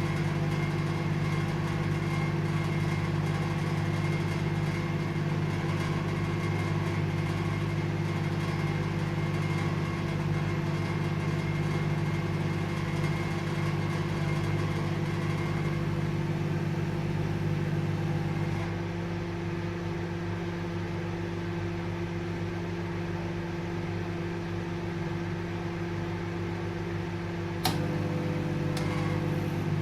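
Microwave oven running: a steady hum with a fan whir. About two-thirds of the way in the hum turns a little quieter and thinner, and near the end a sharp click brings it back as before.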